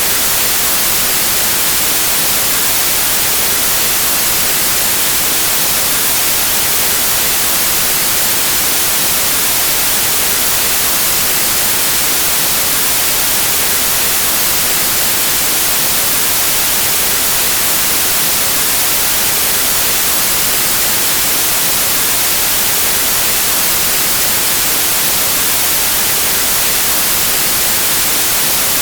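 Steady white noise: an even, unchanging hiss like radio static, loudest in the high frequencies.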